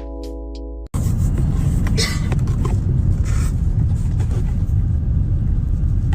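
A music bed with a beat for about a second, then an abrupt cut to a loud, steady low rumble.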